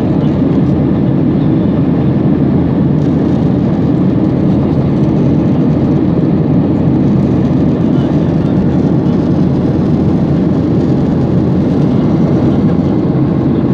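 Steady low roar of an airliner cabin in flight: engine and airflow noise heard from inside the cabin by a window.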